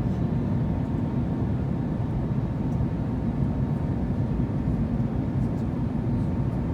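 Steady low rumble of cabin noise inside an Airbus A321neo airliner in flight on its landing approach: engine and airflow noise, with a faint steady hum over it.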